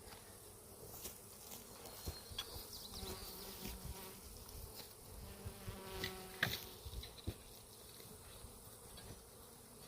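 Swarm of disturbed honeybees buzzing steadily around a toppled, opened hive, the colony agitated. A few sharp knocks break in, the loudest about two-thirds of the way through, and a single bee buzzes close past just before it.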